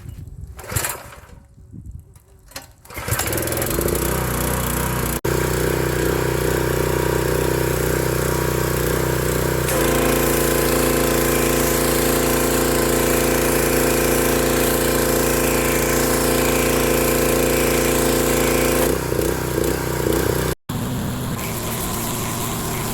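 Husqvarna pressure washer starting up about three seconds in and then running steadily. About ten seconds in its note changes and stays that way for the next nine seconds.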